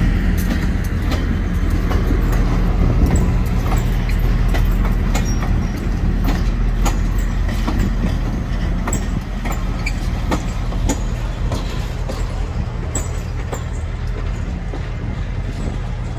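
CSX inspection train's passenger-style cars, including a track geometry car, rolling past: the wheels click sharply and irregularly on the rails over a steady low rumble. The sound fades gradually as the train moves away.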